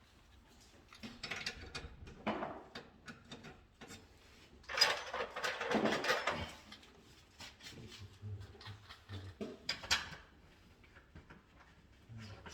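Hand work with tools and parts: scattered sharp clicks and rattles, with a denser, louder rasping stretch about five seconds in.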